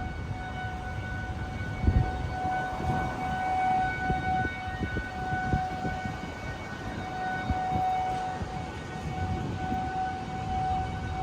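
Outdoor tornado warning siren sounding a long, steady tone that holds one pitch and wavers slightly in strength: the signal of a tornado warning. Gusts of wind rumble on the microphone underneath, with the strongest buffet about two seconds in.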